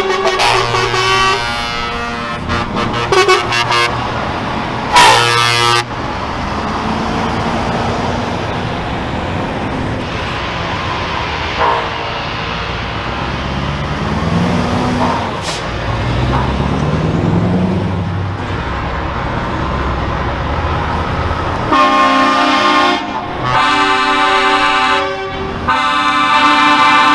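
Truck horns sounding in bursts, several at once near the end, with a short loud blast about five seconds in. Between the blasts, heavy truck engines run, their pitch rising and falling as the trucks pull away.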